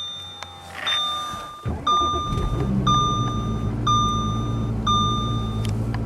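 Audi Q5 3.0-litre V6 TDI diesel cold-starting at about -23°C with no block heater: the starter turns briefly and the engine catches about 1.7 seconds in, then settles into a steady, smooth idle. A dashboard warning chime beeps about once a second throughout.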